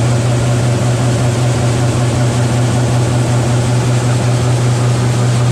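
Large diesel farm machinery running steadily under load: a strong constant low hum with heavy mechanical rattle and rush over it.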